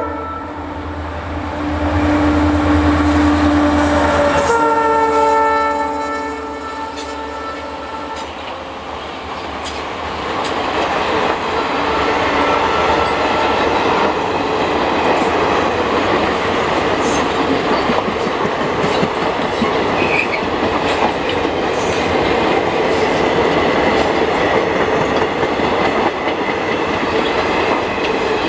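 An Indian Railways train's horn sounds in long blasts over a deep engine rumble, then the train passes close by with a steady rumble and the clickety-clack of wheels over rail joints.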